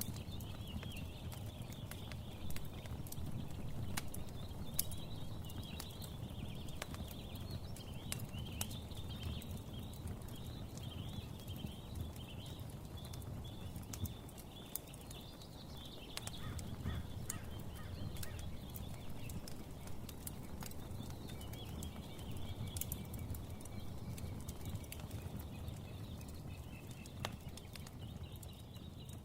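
Fire crackling with scattered sharp pops over a low rumble, and birds chirping and twittering, busiest in the first half.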